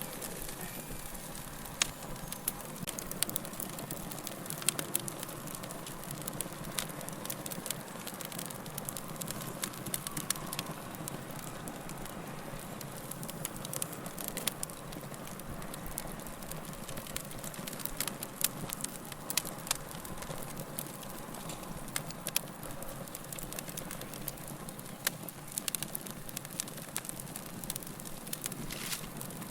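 Wood fire burning steadily in a fireplace, with irregular crackles and the occasional sharp pop from the logs over a soft hissing bed.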